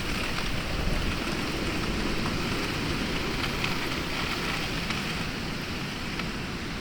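Heavy storm rain falling steadily, with wind, and a few louder drops standing out.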